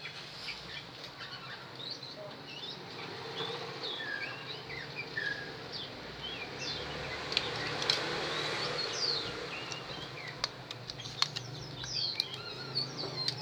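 Many small birds chirping and twittering in the background, over a low steady hum. There are occasional faint clicks from wire being wound by hand onto a drill armature.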